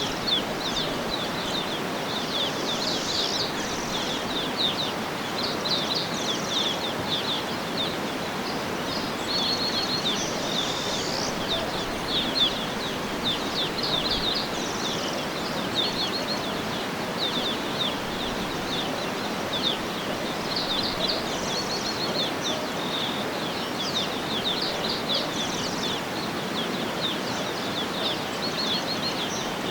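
Many small birds chirping and calling over a steady rushing background hiss, with short, quick, falling chirp notes and occasional brief buzzy trills.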